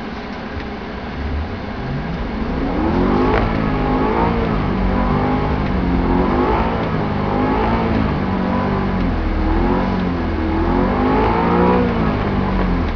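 BMW E90 M3's V8 engine revving, heard from inside the car: its pitch climbs steeply about two seconds in, then rises and falls again several times over a steady low rumble.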